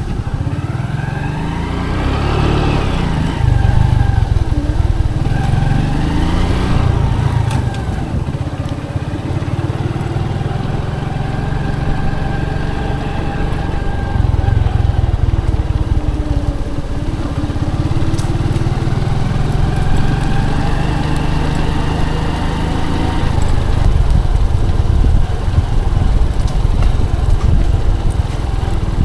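Motorcycle engine running under way, its pitch rising and falling as the rider speeds up and eases off.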